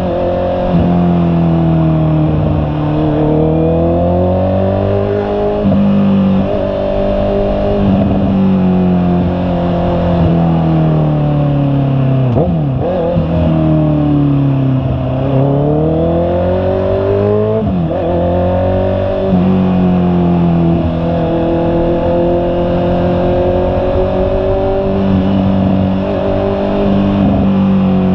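Honda CB650R's inline-four engine running under way, its pitch climbing as the bike pulls and dropping back at shifts or off the throttle, over and over.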